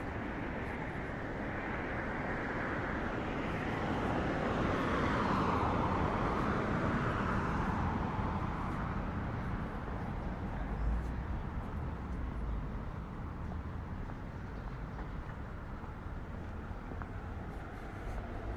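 A car driving past on the street, its tyre and engine noise swelling to a peak about five seconds in and then fading away, over steady traffic hum.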